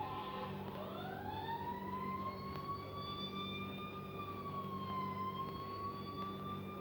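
Fire truck siren winding up: a wail that rises steadily in pitch over about two seconds, holds high, dips briefly and climbs again, over a steady low hum.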